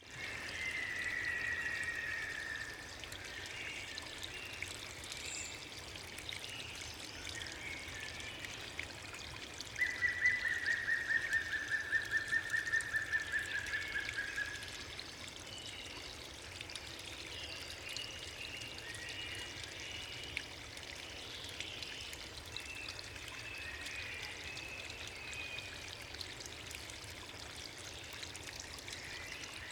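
Steady rush of flowing water, with two long, slightly falling trills over it, one just after the start and a longer one about ten seconds in, and scattered faint chirps later.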